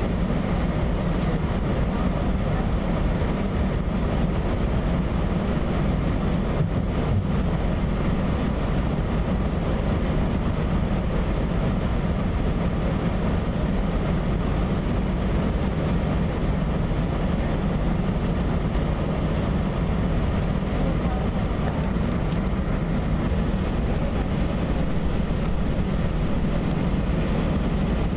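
Airbus A320 with its jet engines running, heard as a steady low rumble with a hiss above it that holds at one level throughout.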